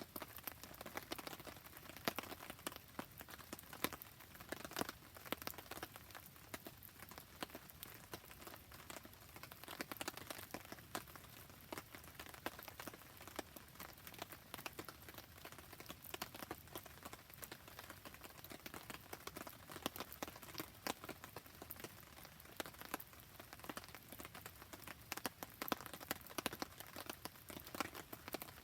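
Steady rain pattering, mixed with the dense small crackles and pops of a wood campfire burning.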